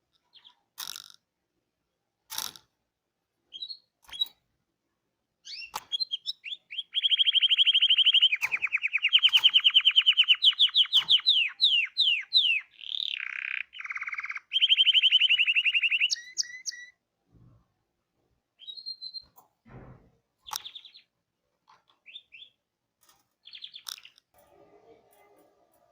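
Domestic canary singing. Scattered short chirps give way, about six seconds in, to a loud song of fast trills: rapid strings of repeated notes that change in speed and pitch. The trills stop about seventeen seconds in, and a few sparse chirps follow.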